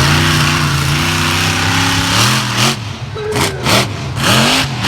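A vehicle engine running at a steady pitch for about two and a half seconds, then voices talking over a busy outdoor background.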